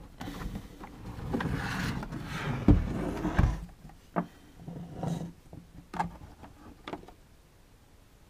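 Box being opened and a plastic tool carrying case handled. About three seconds of rustling and scraping ends in two dull thumps, followed by a few sharp clicks and lighter handling.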